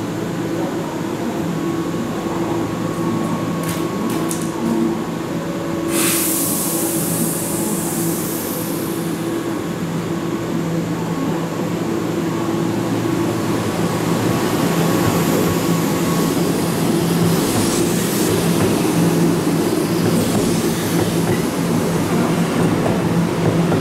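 Keihan 2200 series electric train standing with a steady machinery hum, a sudden hiss of released air about six seconds in, then pulling away, its running noise building as it accelerates past.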